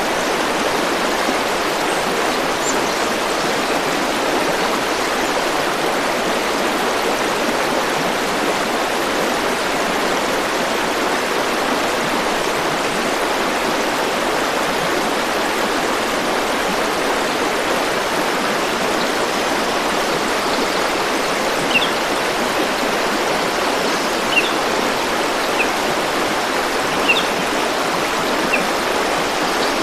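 Forest stream flowing, a steady, even rush of water. In the last several seconds a few short high-pitched sounds stand out above it.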